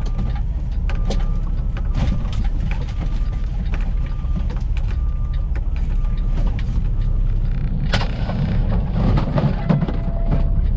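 Semi-truck engine running at low speed while maneuvering, with a backup alarm beeping about once a second. About eight seconds in, a rush of air hiss rises over the engine.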